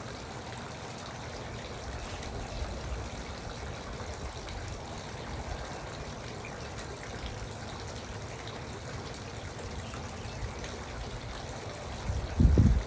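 Garden water fountain trickling and splashing steadily. Near the end there is a brief, louder low rumble.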